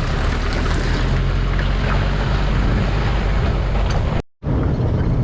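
Steady rushing wind noise on the microphone over a continuous low rumble. It drops out completely for a moment about four seconds in.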